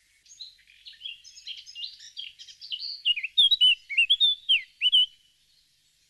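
Male Asian fairy-bluebird singing a quick run of chirps and liquid whistled notes. About halfway through, the notes turn into a series of loud swooping whistles, and the song stops near the end.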